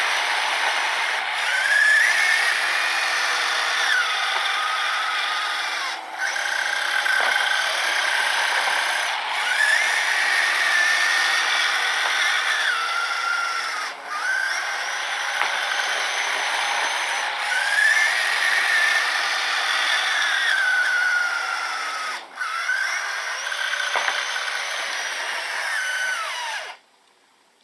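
Small electric motors of a radio-controlled snowblower rig whining, the pitch rising and falling in long swells about every eight seconds with brief dips between them. It cuts off suddenly near the end.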